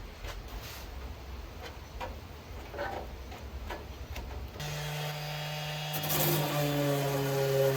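Irregular rubbing strokes of hand sanding on the bodywork. A little over halfway through, a low steady musical tone comes in and changes pitch in steps.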